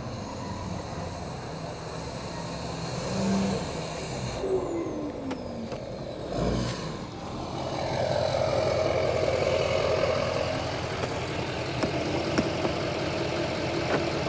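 GMC Duramax 2500's V8 turbo-diesel running through a 5-inch straight-pipe exhaust with no muffler, engine pulling under throttle with the turbocharger whistling as it spools. The engine note falls about halfway through, then swells into a steadier, louder tone.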